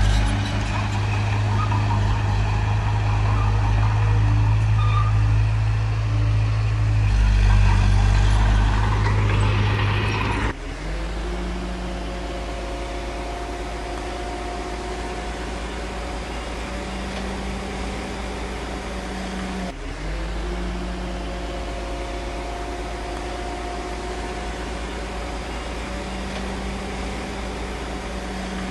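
Heavy diesel construction machinery engine running loud and steady, then dropping abruptly to a quieter, even engine note about ten seconds in.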